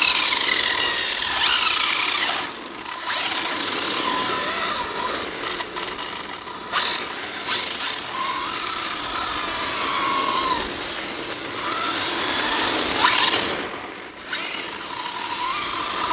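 1/8-scale electric RC drift car's brushless motor whining, its pitch rising and falling with the throttle, over a steady hiss of the tyres sliding on pavement. It dips briefly twice.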